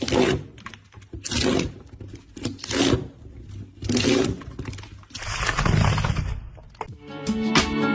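Rhythmic scraping strokes of a hand tool on wood, one about every second and a quarter, over a low hum. Near the end a different short stretch of noise comes in, then guitar music starts.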